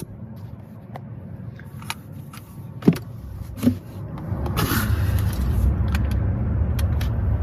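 A few knocks and clicks of handling, then from about four seconds in a steady low rumble of a vehicle that grows louder and holds.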